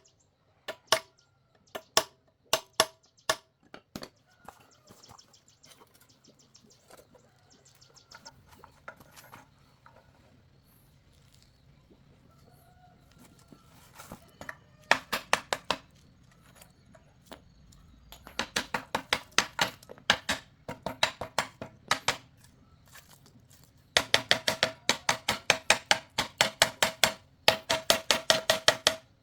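Hammer striking metal with a ringing clang: a few spaced blows, then fast runs of several blows a second. A rooster crows faintly in the quieter stretch.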